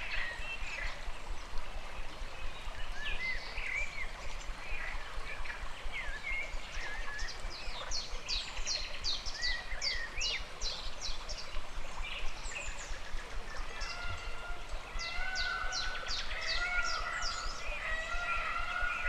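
Stream flowing steadily with several birds singing over it. Curved chirps come first, then a quick series of descending high notes about halfway through, then repeated short calls that hold one pitch in the last few seconds.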